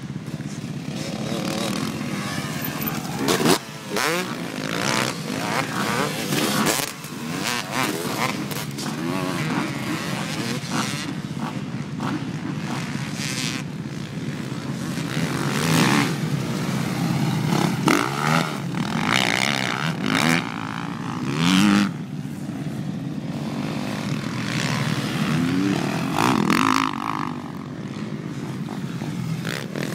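Motocross dirt bikes racing: engines revving up and down, their pitch rising and falling again and again as the bikes accelerate and shift. Short sharp bursts of noise cut in now and then.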